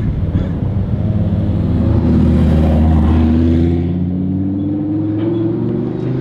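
Aston Martin V12 Vantage's V12 engine running loud, swelling about two seconds in, then rising steadily in pitch as it accelerates.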